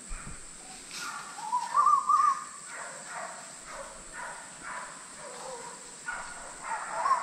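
Birds calling, with a loud warbling call about two seconds in followed by a run of short repeated calls, over a steady high-pitched drone.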